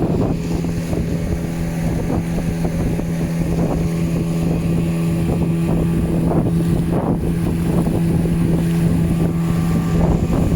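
Outboard motor of a river boat running at a steady, unchanging pitch, with irregular rushes of water and wind noise over it.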